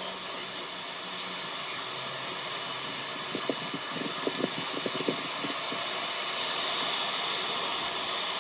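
Honey bees buzzing around an open hive, a steady hum and hiss that swells slightly, with a few brief soft taps about halfway through.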